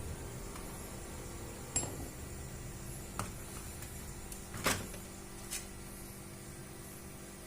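Four short clicks or light knocks, the loudest about halfway through, over a steady low hum.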